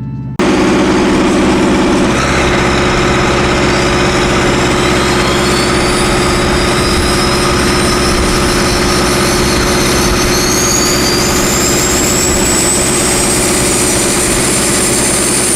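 TBM 940's Pratt & Whitney PT6A-66D turboprop starting: the starter cuts in suddenly about half a second in with a loud steady drone, then a high turbine whine rises steadily in pitch as the engine spools up.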